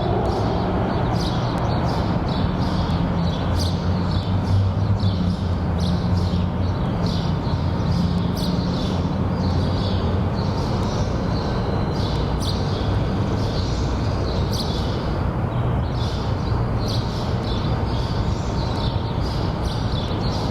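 Steady low rumble of background noise with short high chirps scattered throughout.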